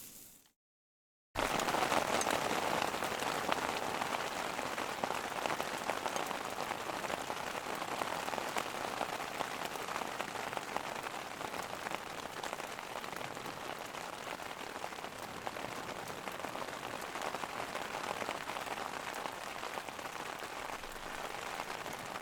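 Rain falling steadily on a surface: an even hiss of many fine drop impacts that starts abruptly after a brief silent gap about a second in.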